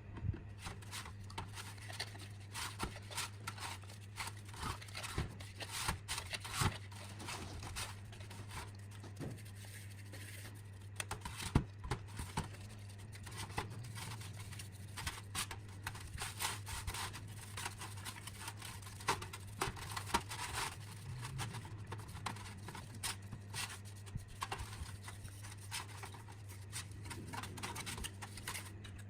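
Hand work on small parts: a long run of short, irregular scrapes and clicks over a steady low hum.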